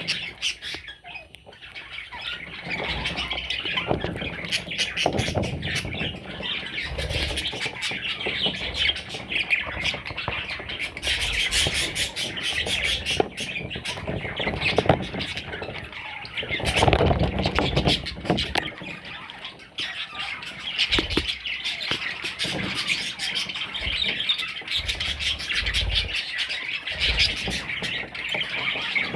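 Budgerigar chicks calling continuously, a dense, high chatter of squawks and cheeps. About seventeen seconds in there is a louder low rustle.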